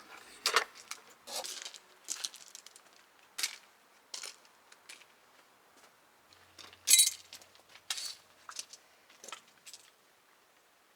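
Irregular metallic clinks, rattles and knocks of parts and tools being handled, with one sharper clatter about seven seconds in; the sounds stop near the end.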